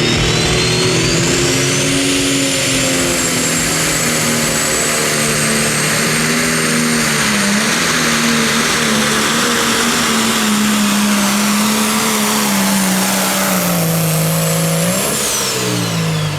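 Pro Stock pulling tractor's turbocharged diesel engine running flat out under load, with a high turbocharger whine that climbs over the first couple of seconds and then holds. Near the end the engine note dips and the whine falls away as the engine backs off.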